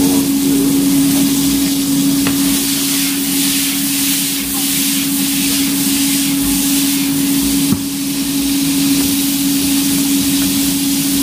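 Green beans sizzling in oil in a non-stick skillet, with the beans tossed in the pan, over a steady hum. A single sharp knock comes a little past halfway.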